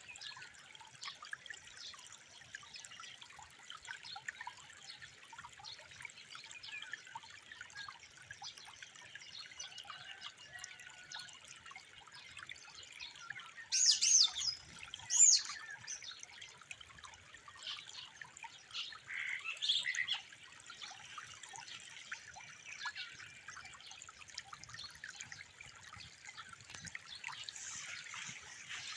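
Outdoor birdsong: small birds chirping over a steady trickle of running water. About halfway through come two loud chirps about a second apart, then a short run of calls a few seconds later.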